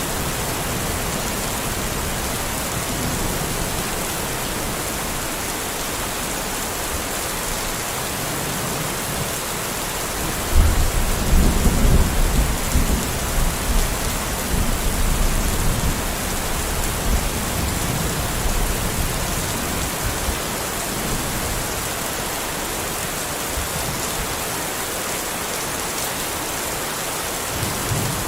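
Steady rain falling, with a low rumble of thunder about ten seconds in that rolls on for several seconds before fading.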